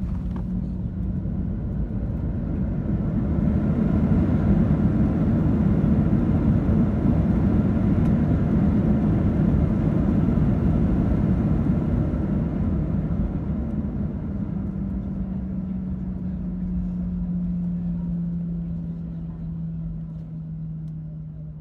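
Cabin noise of a Boeing 737-700 with CFM56 engines during landing. A loud rush of engine and air noise swells for several seconds, then eases off. Under it a steady engine tone returns and slowly drops in pitch.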